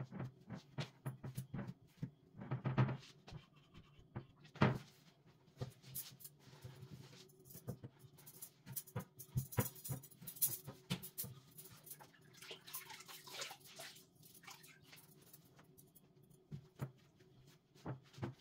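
Household tidying: objects being handled and set down, making scattered light knocks and clicks, with two stretches of rustling or wiping, over a steady low hum.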